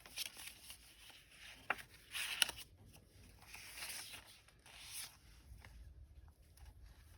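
Paper pages and card inserts of a handmade junk journal rustling and sliding as they are turned and handled, with a few soft taps. The rustle is loudest about two and a half seconds in.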